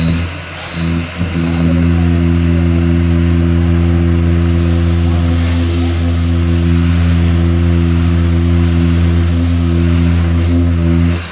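A motor-driven workshop machine running with a steady low hum. It comes up to speed within the first second or two and cuts off suddenly near the end.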